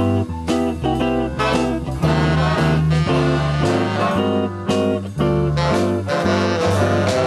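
Swing band playing an instrumental number, with guitar and brass over a bass line that moves note by note about twice a second, and steady drum hits.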